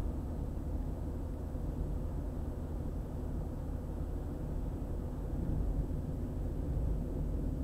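Steady low rumble of road and engine noise from a car driving along a highway.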